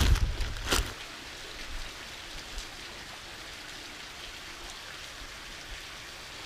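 Steady hiss of running water. In the first second there is a heavy low rumble and one sharp knock, then only the even water noise.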